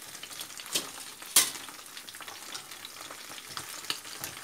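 Green beans sizzling in hot olive oil in a frying pan, being turned over with tongs after six or seven minutes on one side. A few sharp knocks stand out over the sizzle, the loudest about a second and a half in.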